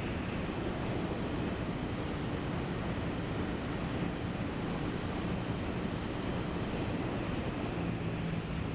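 Heavy, steady wind rush buffeting the microphone while riding a 2023 Aprilia Tuono 660 at speed, with the bike's parallel-twin engine droning faintly beneath.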